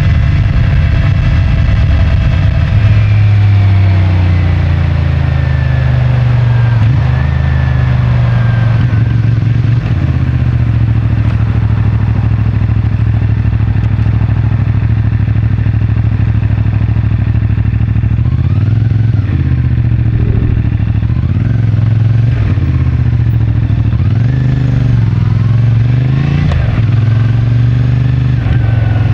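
CFMoto 450MT's 449 cc parallel-twin engine on the stock exhaust, heard from the rider's position. The engine note falls steadily over the first several seconds as the bike slows, then runs steadily low. In the last ten seconds the revs rise and fall several times in short pulls.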